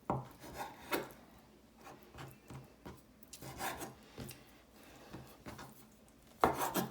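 Chef's knife sawing and slicing through raw chicken breast on a cutting board, in irregular strokes, with sharp knocks of the blade on the board near the start and about a second in and a louder run of strokes near the end. The knife is dull.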